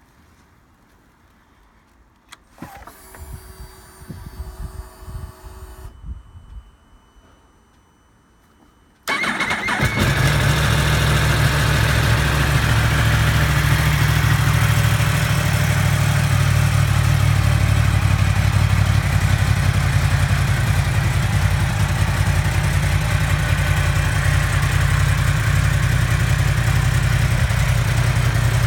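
2015 Yamaha R1's crossplane inline-four: a few seconds of whirring after the ignition is switched on, then about nine seconds in the engine starts and settles into a steady idle.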